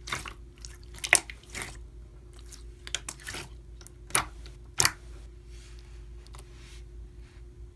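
Slime being squished and poked by hand, with scattered sticky clicks and a few sharper pops: the loudest about a second in and twice between four and five seconds in.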